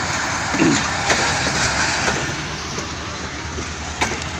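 Passenger train running at a station platform: a steady rumbling noise that slowly fades, with a few light clicks and a brief distant voice about half a second in.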